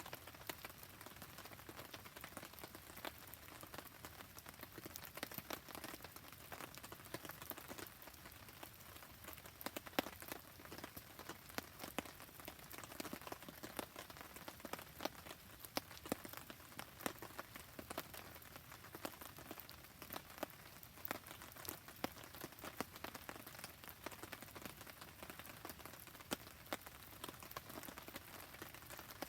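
Steady rain falling, a dense patter of many small sharp drop ticks, mixed with the crackle of a campfire.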